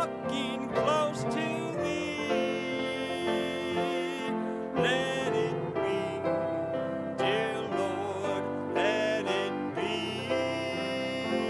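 Gospel hymn music: piano accompaniment with sustained, sliding sung or melodic notes.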